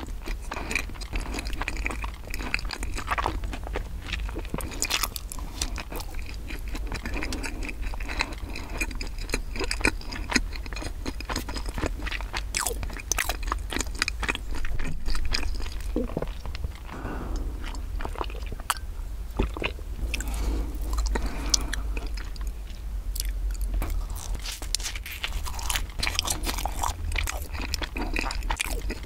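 Close-miked chewing and biting of bread, with frequent small crunches and mouth clicks, over a steady low hum.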